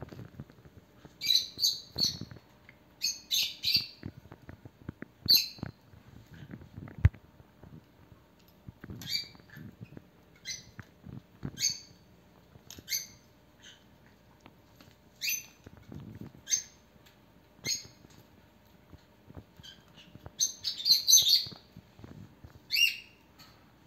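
A caique parrot giving short, high chirps and squawks at irregular intervals, in quick clusters near the start and again near the end, with faint knocks and scuffles in between.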